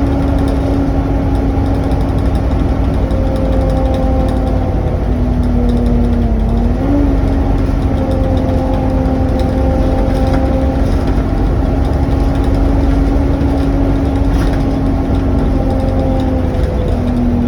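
Volvo B7TL double-decker bus heard on board, with its engine running under a loud, steady vacuum-cleaner-like 'hoover' whine over a low rumble. The whine dips in pitch about five seconds in and again near the end, then rises back each time.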